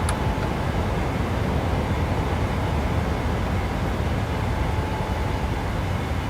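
Steady rush of airflow and engine noise from a Boeing 737-800 climbing out at takeoff thrust just after lift-off, heard from inside the aircraft.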